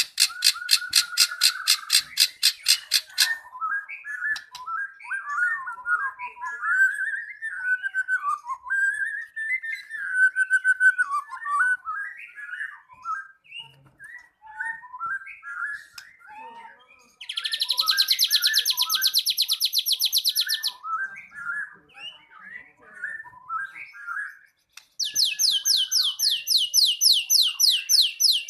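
White-rumped shama singing in full, fighting form: varied quick whistled and warbled phrases, broken by bursts of fast, harsh, buzzy rattling near the start, about two-thirds of the way in and again near the end.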